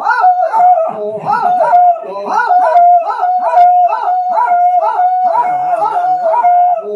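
Dog howling: a long, pitched howl that wavers up and down in quick repeated swoops at first, then settles into a steady held note.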